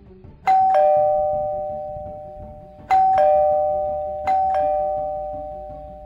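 Two-tone ding-dong doorbell chime sounding three times, each higher note followed by a lower one and left to ring out and fade.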